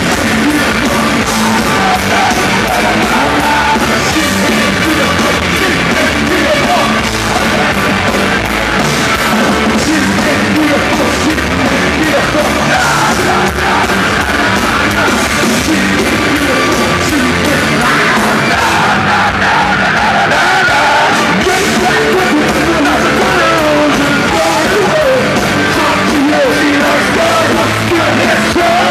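Live rock band playing loudly, with yelled, shouted vocals over the full band.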